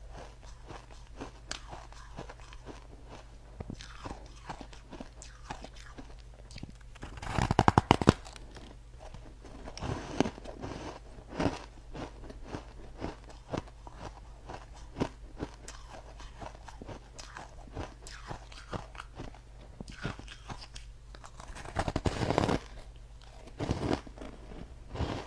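Ice being bitten and crunched between the teeth: two loud crunching bites, one about seven seconds in and one about fifteen seconds later, with lighter crackling crunches of chewing in between.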